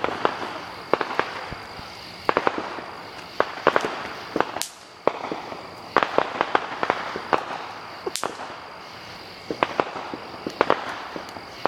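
Consumer fireworks going off: volleys of sharp pops and crackles in clusters, with two brief whistling shrieks, one about halfway through and one about two-thirds of the way in.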